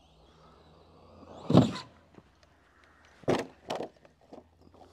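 RC monster truck slamming down hard about a second and a half in, then two shorter thuds a little later as it bounces on the dirt, with a faint motor whine before the first hit.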